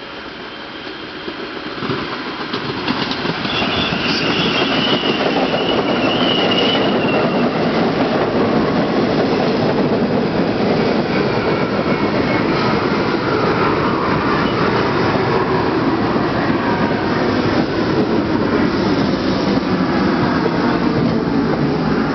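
Budd R32 New York City Subway train arriving and running past, growing louder over the first four seconds and then a steady loud rumble of wheels on rail. A faint high squeal rises and falls between about three and seven seconds in.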